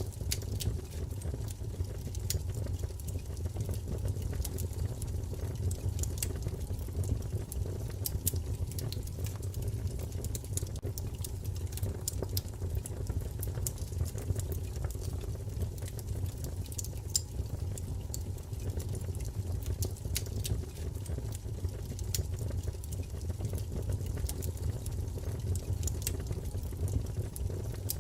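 Wood fire crackling and popping: a steady low rumble of flames with scattered sharp snaps throughout.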